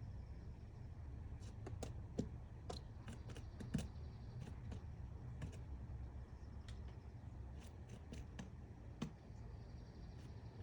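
Woodpecker chiselling at wood while excavating its nest cavity: irregular sharp taps, some in quick clusters, with a few louder strikes, over a low steady rumble.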